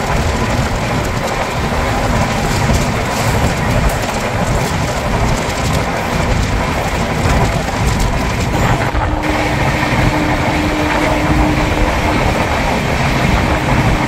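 Express passenger train running at about 125 km/h through a station, heard from the open side of the coach: a loud, steady rush of wheels on rail and air. A steady tone comes in about nine seconds in.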